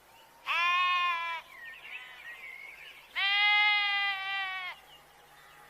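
Goat bleating twice: a call of about a second, then a longer one of about a second and a half, both high and held level in pitch. Faint chirping between the two calls.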